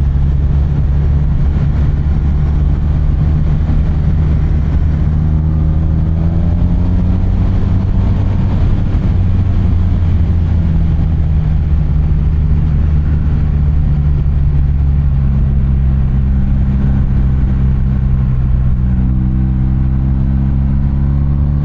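BMW R 1250 RT's 1254 cc boxer-twin engine running steadily under way. Its pitch climbs twice, about five and fifteen seconds in, as the bike accelerates.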